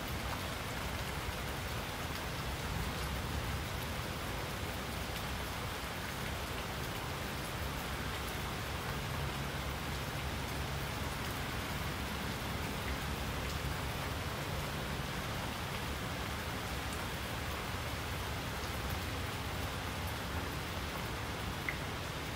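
Steady rain falling, an even hiss with a low undertone beneath it and an occasional single drop tapping, one sharper tick near the end.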